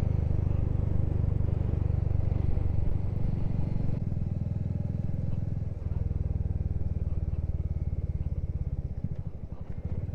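Motorcycle engine running steadily on the move, with a brief dip in its note a little before the six-second mark and easing off near the end.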